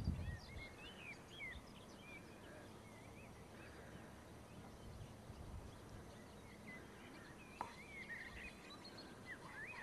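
Small birds chirping, many short calls, faint over a steady outdoor hiss, with a brief low rumble right at the start.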